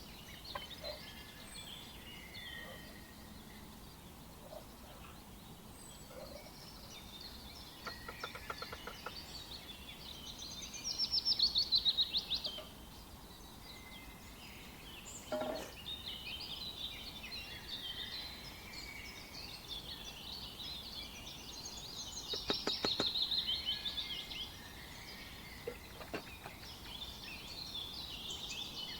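Birds chirping and warbling, with two louder calls made of rapid repeated notes: one about eleven seconds in and another a little past twenty-two seconds.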